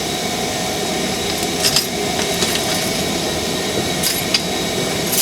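Steady mechanical running noise from the workshop machinery, with a few light clicks about two and four seconds in.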